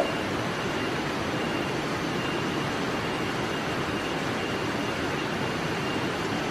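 Steady rushing background noise with a faint, thin high tone that comes and goes.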